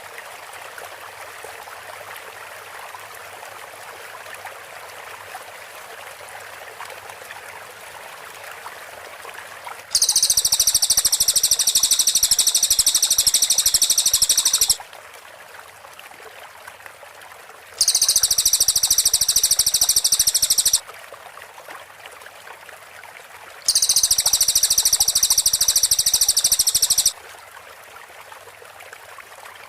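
Cililin bird singing its rapid-fire, tightly repeated high-pitched 'tembakan' (shot) notes in three loud bursts of about three to five seconds each, with a fourth starting at the end. Between the bursts, a steady background like running stream water.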